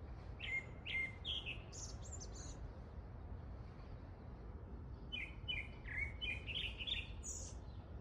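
Wild songbirds chirping in two flurries of short, quick calls, one starting about half a second in and another about five seconds in, over a steady low rumble.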